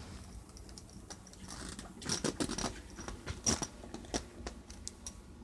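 Sleeping bag zipper being pulled open along a dog bed: an irregular run of clicks and rasps from the zipper teeth, busiest from about two seconds in.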